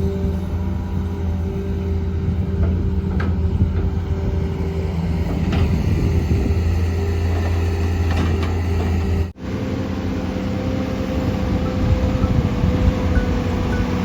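Heavy diesel machinery engine running steadily, with a few faint clanks. About two-thirds of the way in the sound cuts off abruptly and switches to another engine running at a different pitch.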